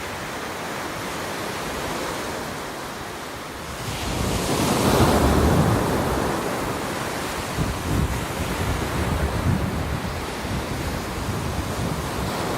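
Ocean surf: a wave breaks about four seconds in and washes up, over a steady background of surf. Wind buffets the microphone with low rumbling gusts.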